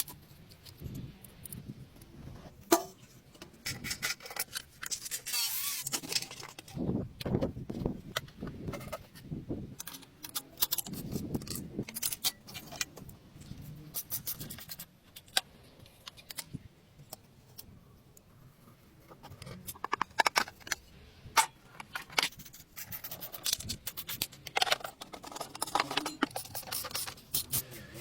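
Metal tools and scooter parts clinking, knocking and scraping in irregular bursts, as in hands-on restoration work on an old Vespa.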